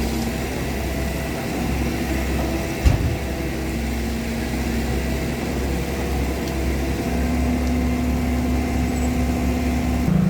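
An engine running steadily, its pitch shifting a little now and then, with a single thump about three seconds in.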